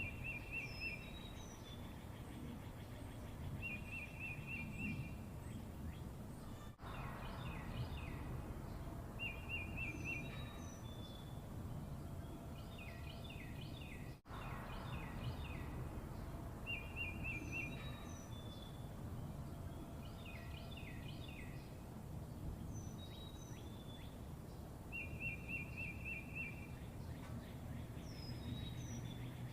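Birds singing: a short high trill and scattered chirps and falling notes that come back every few seconds, over steady low background noise. The sound cuts out briefly twice, about 7 and 14 seconds in.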